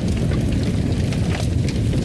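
Fire crackling in a fireplace: a steady low rumble with scattered sharp pops and crackles.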